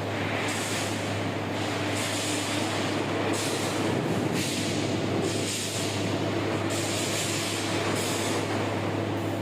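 Steady low machinery hum with a constant higher tone, broken by short hissing bursts about once a second, from the loading of steel bars onto a lorry.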